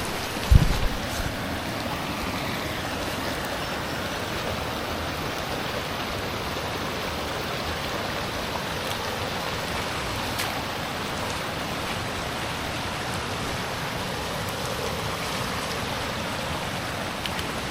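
Steady rush of flowing water from a rain-flooded creek, with one short low thump about half a second in.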